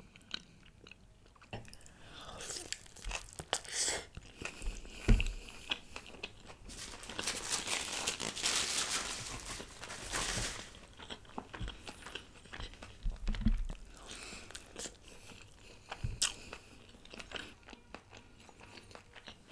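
Close-miked biting and chewing of sauce-coated fried chicken, in scattered short bites and chews that grow densest and loudest about seven to ten seconds in.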